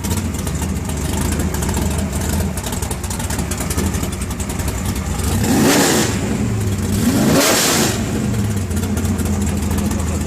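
Drag race car engine idling loudly, then revved twice in quick succession, about five and a half and seven seconds in, each rev rising sharply in pitch and dropping back to idle.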